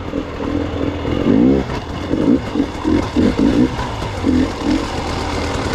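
Gas Gas EX 300 two-stroke dirt bike engine revving up and down in repeated short bursts of throttle while being ridden.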